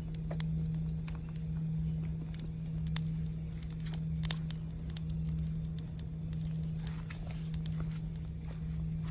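Campfire crackling and popping in irregular sharp snaps over the steady, sustained hum of a singing bowl.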